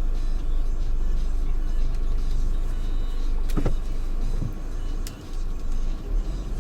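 Steady low road and engine rumble of a Geely Atlas 1.8T in motion, heard from inside the cabin, with one short sharp sound about three and a half seconds in.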